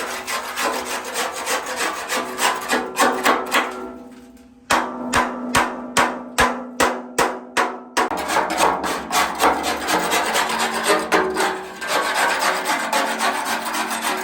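Hand tool rasping back and forth on a concrete mixer part in quick repeated strokes. About a third of the way in, the strokes give way to a run of about ten sharp, even knocks, then the rasping resumes.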